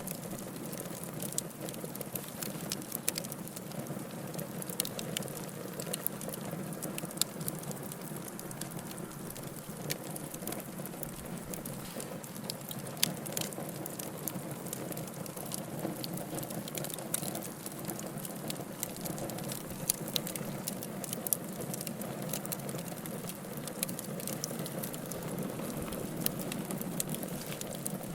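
Wood fire burning in a fireplace: a steady hiss with many irregular sharp crackles and pops.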